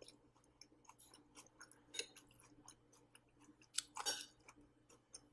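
Quiet chewing of a mouthful of fried rice, with small wet mouth clicks. A spoon scrapes and clinks on the plate, loudest about four seconds in.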